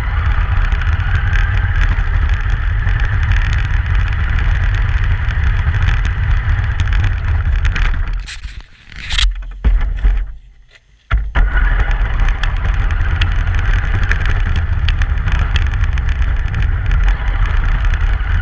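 Truck driving, heard as a steady, loud rumble of road and wind noise from a GoPro on the moving vehicle. The noise drops away briefly about eight seconds in, nearly cuts out for about a second around ten seconds, then comes back abruptly.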